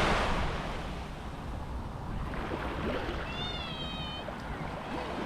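Sea surf and wind on the microphone, with a wave wash loudest at the start, and one drawn-out, wavering high-pitched call about three seconds in, like a child shrieking at play.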